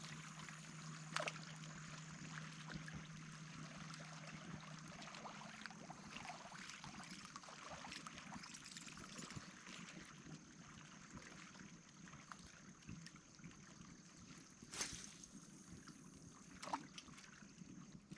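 Faint trickling of water, broken by a few short sharp clicks or splashes, the clearest two near the end.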